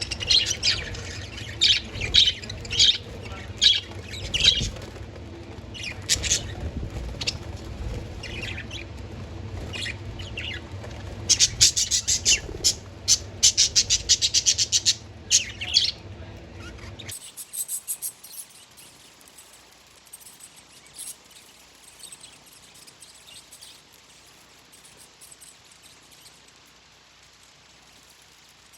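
Pet budgerigars chirping and chattering in quick, high calls, with a dense rapid run partway through. About two-thirds of the way in, the background hum cuts out and only fainter, scattered chirps remain.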